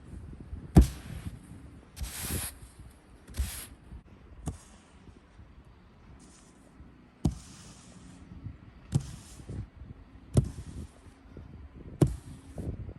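Foam snow brush shoving heavy snow off a car: a run of dull thumps and short swishes, about one every one to two seconds, as the snow is pushed and slides off.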